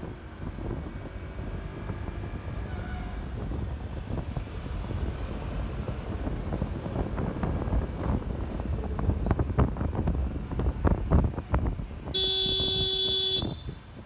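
Wind buffeting and road rumble from riding a Honda ADV 150 scooter, with gusty knocks on the microphone growing in the second half. Near the end a vehicle horn sounds once, a steady toot of about a second.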